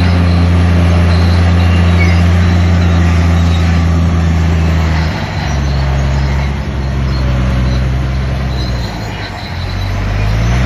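Heavy diesel engine of a bulldozer working under load, running steadily at high revs. Its note drops to a lower pitch about halfway through, dips again near the end, then revs back up.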